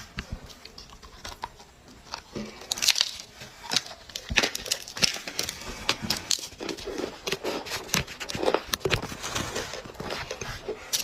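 Dry clay being crushed and crumbled, an irregular run of crisp crunches and crackles.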